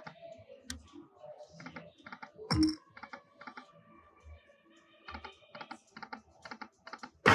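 Lightning Link slot machine spinning its reels: a rapid, uneven run of soft clicks with faint electronic tones, and one louder thump about two and a half seconds in.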